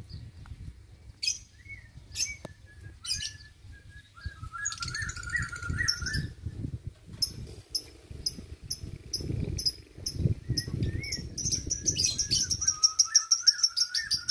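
Lovebird chirping: short, shrill chirps scattered through the first part, then a fast run of repeated chirps near the end. A low rumble sits underneath most of it.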